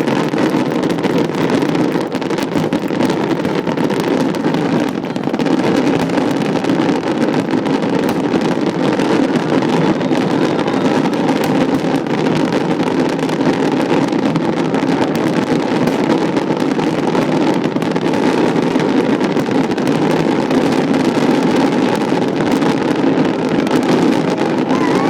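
Fireworks finale barrage: bursts follow each other so fast that they merge into one continuous rumble, with fine crackling running through it.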